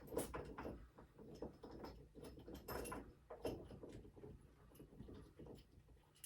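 Scattered light knocks and clicks of metal parts being handled while a steering gearbox is reassembled, at irregular intervals over a faint low hum.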